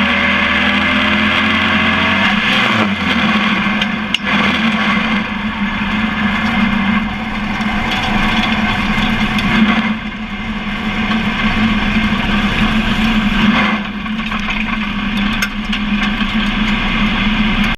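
Onboard sound of a Pro Truck race truck running on track: a steady engine drone with heavy wind and road noise and a changing engine pitch in the first couple of seconds. A single sharp knock about four seconds in.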